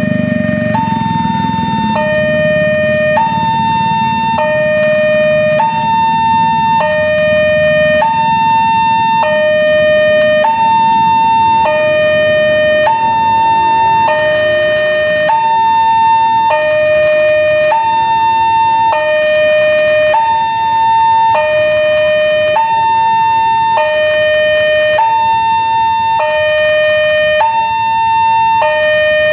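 Railway level-crossing warning alarm of a Wanteck crossing gate, sounding continuously as a two-tone signal that alternates between a higher and a lower tone about every second. This means the crossing is in its warning state for an approaching train. A low rumble fades out over the first several seconds.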